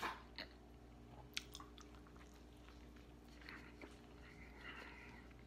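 Faint chewing of a mouthful of pita bread and grilled souvlaki meat, with a few soft mouth clicks in the first second and a half, then quieter chewing.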